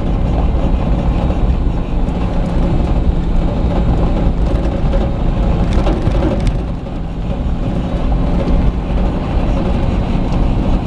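Steady road and engine noise of a moving car heard from inside the cabin: a low rumble with a faint constant hum.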